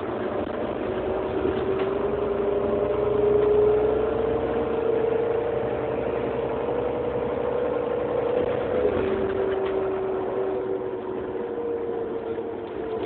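Heuliez GX 327 city bus engine running under way, with a steady whine that rises slowly in pitch, drops suddenly about nine seconds in, then eases down.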